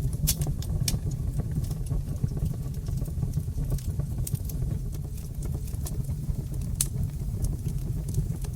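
Wood fire burning in a fireplace: a steady low rumble of flames with irregular sharp crackles and pops scattered through, the loudest pop just before seven seconds in.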